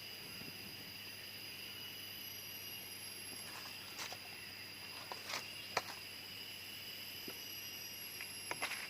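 Jungle insects keeping up a steady high-pitched drone of several held tones, with a few sharp clicks or snaps in the second half.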